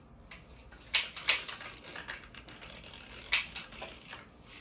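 Clicks and clacks of airsoft pistols being handled: two or three sharp clicks about a second in, a loud single click a little after three seconds, and lighter clicking in between.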